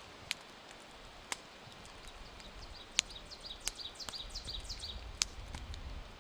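A small songbird sings a fast run of short descending notes about three seconds in, over a steady hiss of rain, with a few sharp single ticks of drops.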